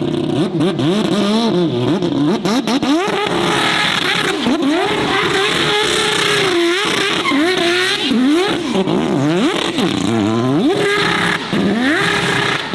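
A high-performance car engine revved hard up and down over and over, about once a second, as the car powerslides on the throttle.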